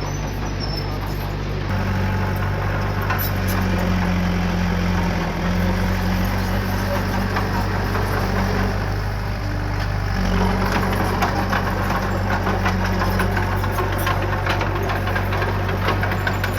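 Diesel engine of earth-moving machinery running under load. It picks up about two seconds in, eases briefly around the middle, then picks up again, with a steady rattle of clicks over it.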